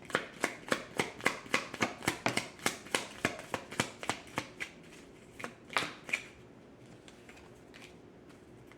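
Tarot cards being shuffled by hand: a quick, even run of crisp slaps, about three a second, that thins out and stops about six seconds in.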